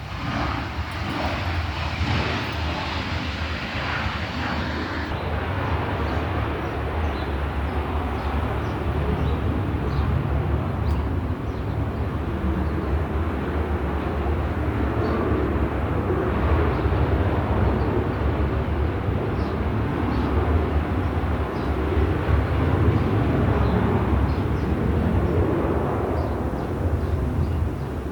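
Fixed-wing aircraft coming in to land at a nearby air base, its engines a loud, steady noise with a strong deep component that swells slightly in the second half.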